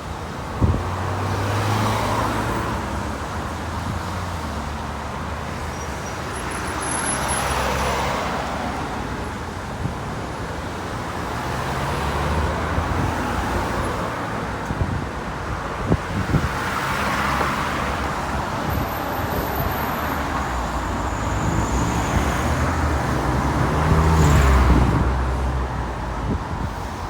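Road traffic going by: a run of vehicles, cars and buses among them, each one's engine and tyre sound swelling and fading as it passes, about five times. There is a short knock about a second in.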